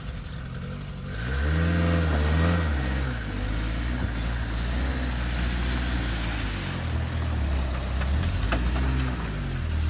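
Lada Kalina sedan's engine revving under load as it hauls a boat trailer carrying a catamaran up out of the water. The revs climb about a second in, rise and fall briefly, then hold steady, with another small rise near the end.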